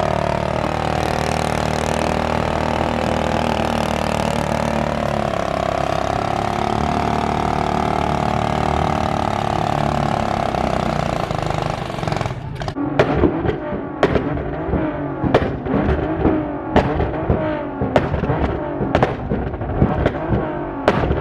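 A car engine revved hard and held at high revs for about twelve seconds, its pitch wavering slowly. Then it drops away and a run of sharp bangs and cracks follows, about one or two a second.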